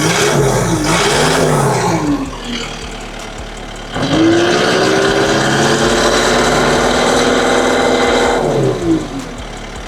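Takeuchi TL8 skid steer's diesel engine being throttled: revved up and down a couple of times, settling to idle, then run up sharply to high revs and held for about four seconds before dropping back to idle. It pulls cleanly, running well with its DPF freshly regenerated and no fault codes.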